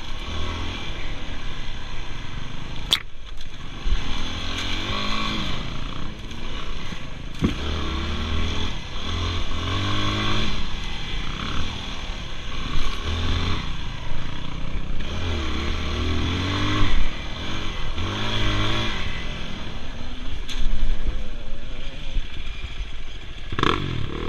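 Dirt bike engine revving, its pitch rising and falling over and over with throttle and gear changes. A sharp click comes about three seconds in.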